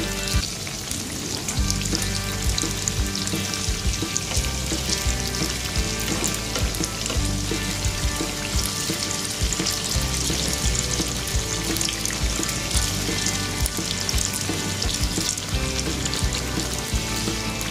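Small bread rolls deep-frying in hot oil in a pan: a steady sizzle with scattered crackling pops.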